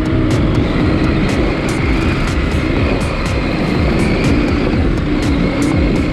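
KTM 890 Adventure R's parallel-twin engine running steadily as the bike rides a dirt trail, with frequent short sharp ticks over it.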